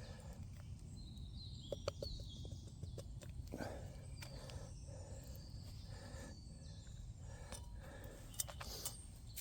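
Quiet outdoor ambience: a steady low rumble with faint bird chirps, mostly a couple of seconds in, and a few small clicks and knocks.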